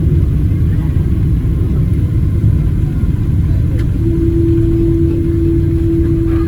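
Loud, steady low rumble of a Boeing 777-200 heard inside the passenger cabin, with a steady hum coming in about four seconds in.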